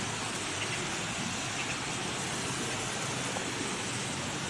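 Steady rushing noise of strong wind, even and unbroken.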